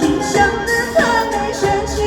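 Singing over a pop backing track, the voice holding and bending melodic notes.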